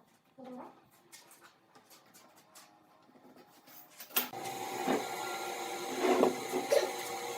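A few light clicks and knocks, then about four seconds in an electric power tool starts with a sharp knock and runs steadily, with a couple of louder surges as it works.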